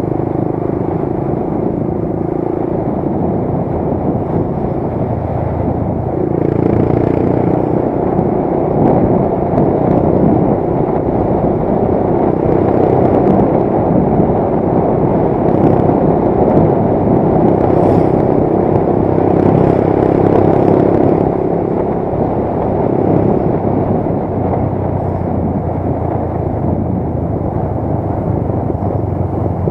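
Motorcycle engine running while riding, with a steady rushing noise over it; it grows louder about six seconds in and eases back about twenty seconds later.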